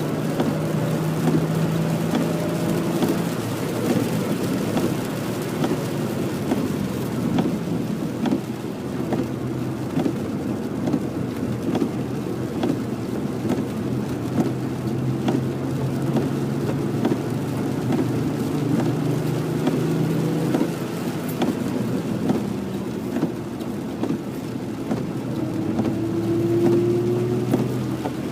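2011 Ford Mustang's engine running at track speed in heavy rain, its pitch holding, dropping and climbing again as it accelerates near the end. Steady rain and tyre-spray hiss runs underneath, with many small ticks.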